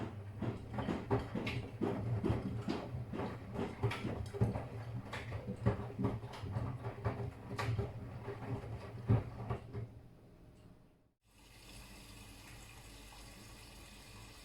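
Miele washing machine in its wash cycle: the drum turning over wet laundry, with irregular sloshing and soft thuds over a steady motor hum. About eleven seconds in this stops abruptly and a steady hiss follows.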